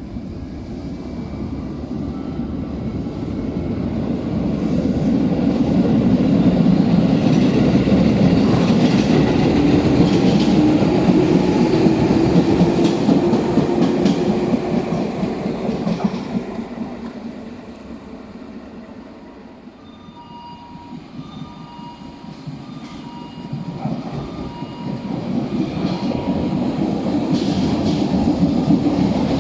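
Electric train running along the platform track with wheels clacking over the rail joints, growing louder to a peak and then fading away; near the end train noise builds again.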